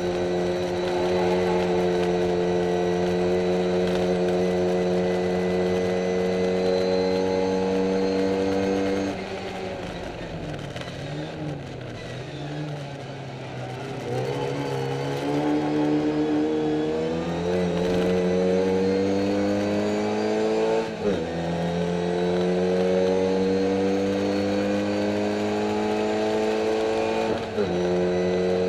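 Classic Mini race car's A-series four-cylinder engine heard from inside the cabin, its pitch climbing slowly under full throttle. About a third of the way through it drops and goes quieter for a few seconds as the driver lifts off, then pulls again, with quick upshifts about two-thirds of the way through and near the end. The car is described as down on power.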